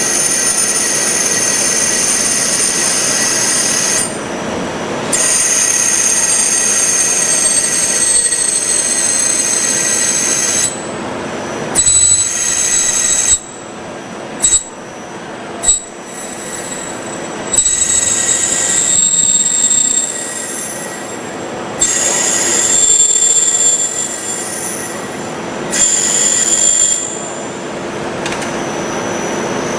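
Milling machine cutting, with a high-pitched squeal that drifts slowly in pitch over a steady machine noise. The squeal and noise drop away and start again several times, with a few short sharp knocks around the middle.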